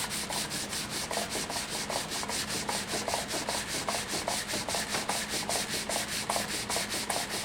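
Wet sandpaper rubbed rapidly back and forth over the cured finish of a wooden stave drum shell, about five or six strokes a second. The finish is being sanded flat, ready for buffing.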